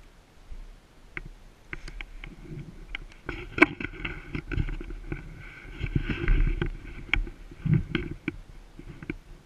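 Irregular rustling and knocks close to the microphone, with a sharp click about three and a half seconds in.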